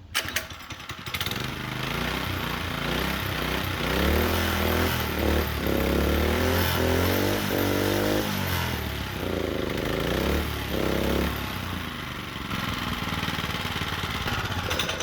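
Small engine of an old minibike starting after a few clicks, then revved up and down several times and settling back to a steady idle near the end. It runs unloaded, the chain not hooked up, and the owner calls it not a very good engine.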